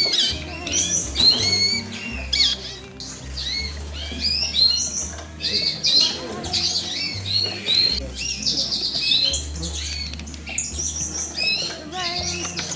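Many caged show birds chirping and calling at once, with short rising-and-falling calls overlapping without a break.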